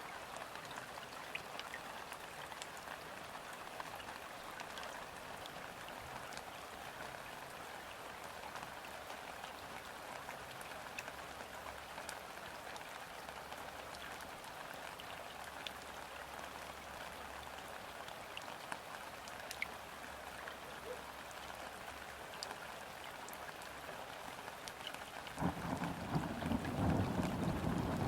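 Light rain falling onto a river's surface: a steady patter with scattered single drop ticks. Near the end a louder low rumble sets in suddenly, distant thunder rolling.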